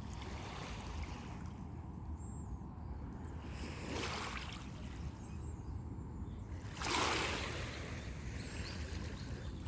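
Sea waves breaking on a beach: two surges of surf, the second, about seven seconds in, louder and washing out slowly, over a steady low rumble.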